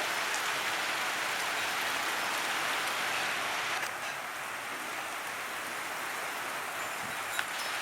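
Heavy rain falling steadily, an even hiss that eases slightly about four seconds in.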